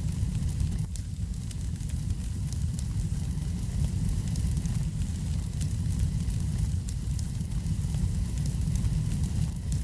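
Wood fire burning in a fireplace: a steady low rumble with many small crackles and pops scattered throughout.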